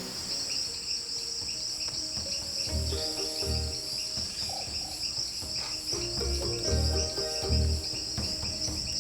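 Steady, fast-pulsing high chorus of rainforest insects such as crickets. From about three seconds in, soft background music with low drum beats and held notes plays under it.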